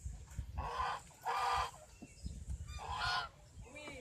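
Birds giving three loud, harsh calls: two close together, then a third about a second and a half later.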